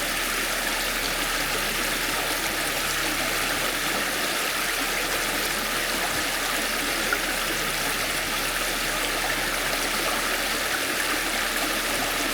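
A creek running steadily, an even hiss of flowing water with no breaks.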